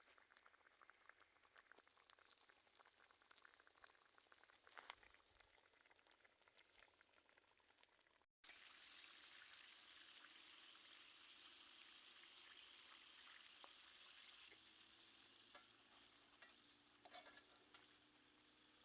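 Food sizzling as it fries in a pan, a steady hiss that starts abruptly about eight seconds in, with a few light clicks; before that, only faint ticks.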